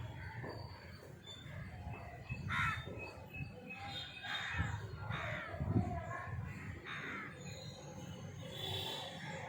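Birds calling: about five short calls spaced a second or two apart.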